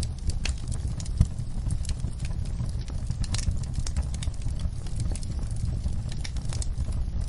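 Wood fire in a fireplace, crackling with irregular sharp pops over a steady low rumble of the flames, one louder pop about a second in.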